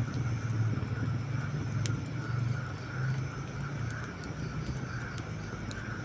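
Wood campfire burning, with a few sharp crackles and pops scattered through, over a steady low rumble that is the loudest thing throughout.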